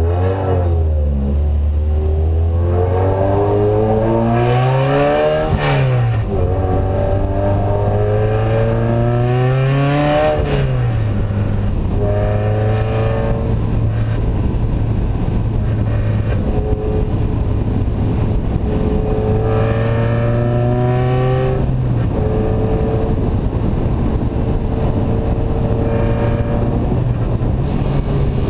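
Vehicle engine with an open, unsilenced exhaust, running under way: its pitch climbs and drops several times as it pulls through the revs, with two long climbs in the first half and steadier stretches with shorter rises after.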